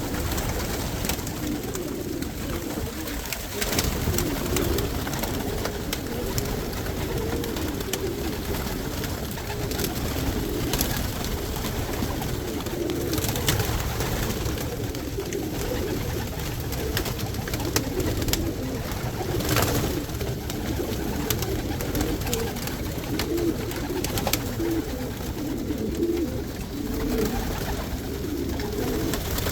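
Many pigeons cooing together in a loft, a continuous low burbling chorus, with occasional sharp clicks.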